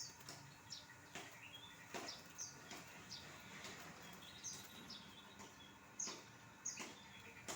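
Caged songbirds chirping faintly: short, high chirps that slide downward, about one every half second to a second.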